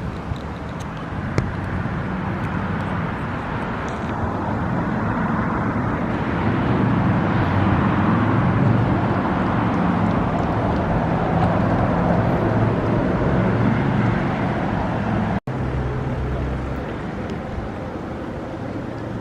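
A motor's low rumble swells over several seconds and then eases off, as something passes, over steady outdoor noise. The sound cuts out for an instant about fifteen seconds in.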